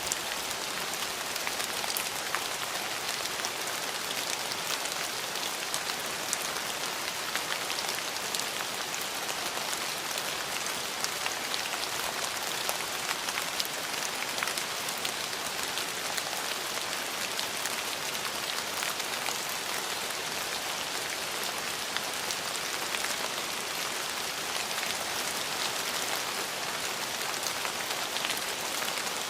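Steady rain falling, a constant hiss of rain with many sharp drop ticks on a hard surface.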